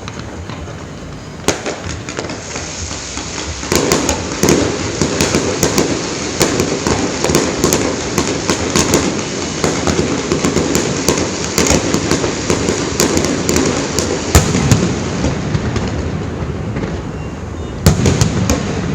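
Aerial fireworks going off: repeated bangs over dense crackling, which thickens about four seconds in, with one heavy bang about two-thirds through and a fresh cluster of sharp cracks near the end.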